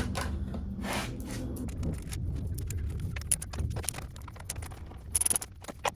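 Hand tools on metal: quick clicks and clinks of a socket ratchet and bolts as a motorcycle's fuel tank is bolted back down, with a clustered run of clicks in the middle and a brighter metallic clink near the end.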